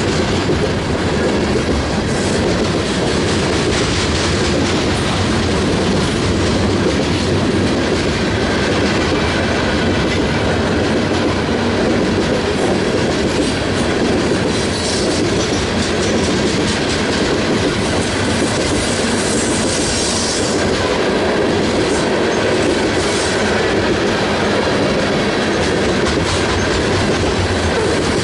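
Railroad cars rolling past at steady speed, wheels clicking over the rail joints, with a few brief high wheel squeals.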